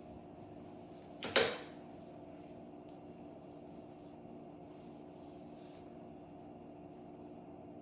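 A short double knock about a second in, like a hard object set down or bumped, over a steady low hum.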